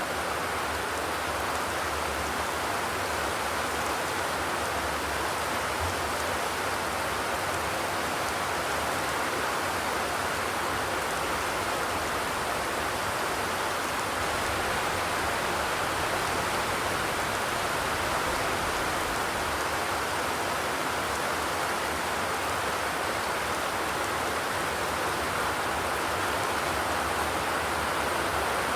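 Steady rain falling on a zinc roof, an even, unbroken hiss with no thunder.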